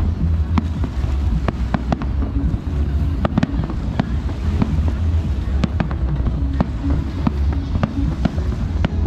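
Fireworks display going off: many irregular sharp cracks and pops over a constant deep rumble.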